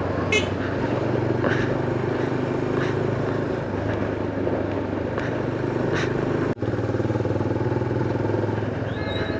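Motorcycle engine running steadily while riding at a constant speed, with a brief break in the sound about two-thirds of the way through.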